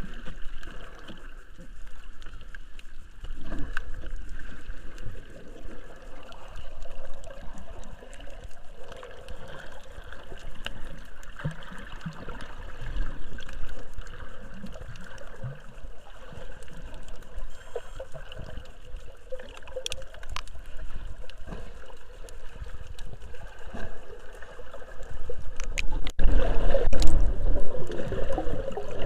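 Sea water sloshing and gurgling in small irregular splashes. Near the end it grows louder, with a low rumble and a sharp knock.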